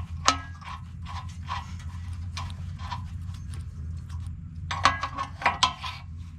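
A wrench tightening the top nuts on a portable sawmill bunk's leveling bolt: a sharp metal click, then a run of light, rhythmic clinks and knocks, with a louder cluster of strokes near the end.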